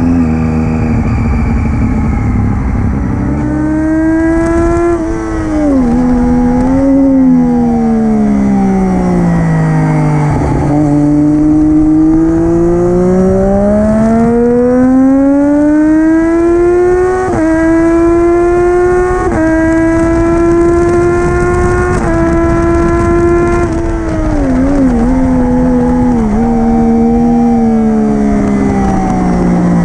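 Triumph Daytona 675R's inline three-cylinder engine through an Arrow Stage 3 titanium full-system race exhaust, heard onboard at racing speed. The revs climb hard through the gears with quick upshifts in the middle, and fall away with short throttle blips on the downshifts into the braking zones, twice.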